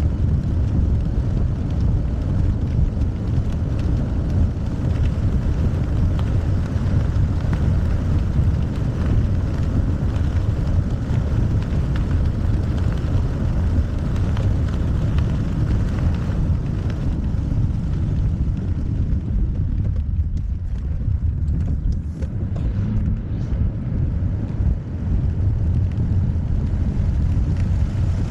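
Strong gusty storm wind rumbling and buffeting on the microphone, with a fainter hiss above it that thins out about two-thirds of the way through.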